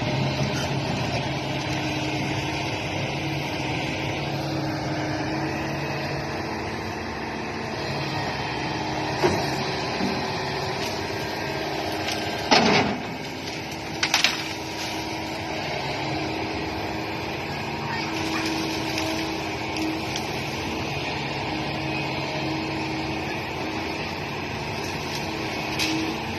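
Small motor of a radio-controlled model excavator running steadily with a hum whose pitch shifts a few times, broken by a few sharp knocks near the middle.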